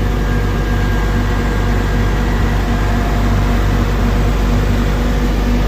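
Heavy diesel engine running at a steady speed, a loud even hum with a steady low tone.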